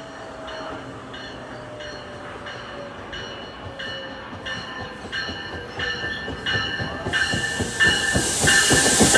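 NJ Transit double-deck commuter train pulling into a station, with a bell ringing about twice a second as it approaches. Loudness builds steadily, and in the last couple of seconds a loud hiss and wheel clatter come in as the front of the train reaches the platform.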